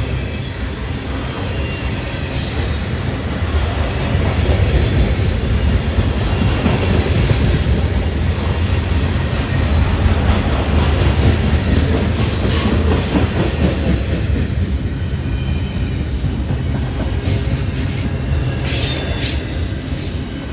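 A train rolling past, its railcars rumbling steadily over the rails, with brief high-pitched wheel squeals near the end.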